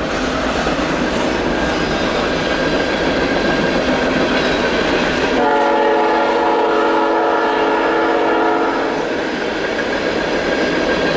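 Freight train rolling past with steady noise, led by CN GE ES44AC locomotives. About five seconds in, a locomotive horn sounds one long, steady chord lasting about three and a half seconds.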